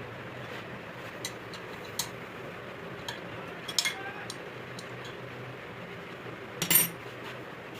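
Scattered metal clinks and knocks over a steady low hum, a few light ones spread through and one louder knock near the end.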